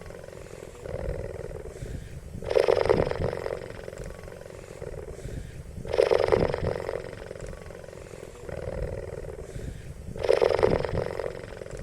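An animal calling over and over: a loud call about a second long roughly every three and a half seconds, with a softer call between each pair.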